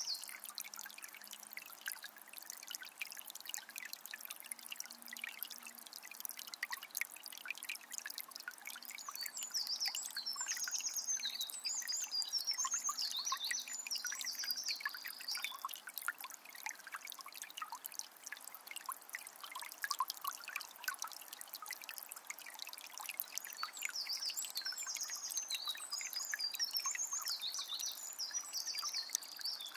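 Forest river trickling and burbling steadily over stones, with birds chirping high in two spells, one in the first half and one near the end.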